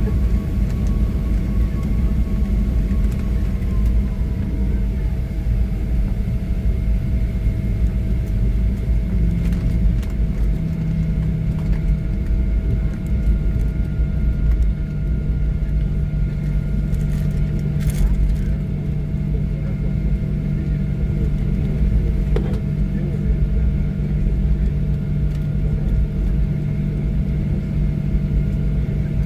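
Cabin noise of a Boeing 737-700 taxiing after landing: a steady low rumble with the CFM56-7B engines at idle, and a few steady hums above it. A tone slides down in pitch a few seconds in.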